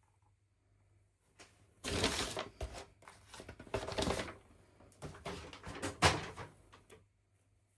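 Doll packaging being handled and opened: three bursts of rustling and scraping with small clicks, about two, four and six seconds in.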